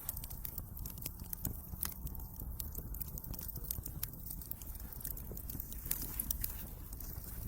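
Wood fire crackling in a fireplace, with many scattered sharp pops over a low steady rumble.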